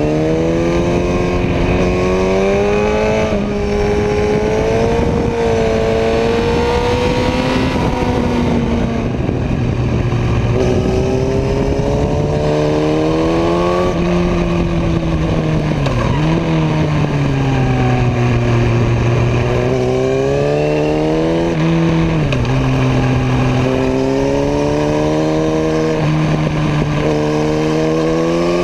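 Motorcycle engine heard from on board, its pitch climbing and falling over several seconds at a time as the rider opens and closes the throttle through tight bends, with two sharp dips in pitch in the latter half. A steady rushing noise runs underneath.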